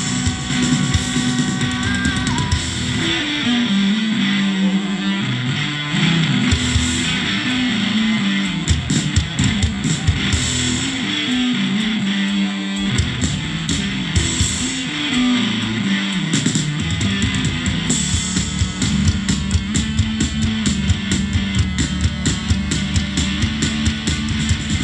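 Rock band playing live: distorted electric guitar and bass play a riff whose low line slides up and down, over drums. The drumming grows denser in the second half.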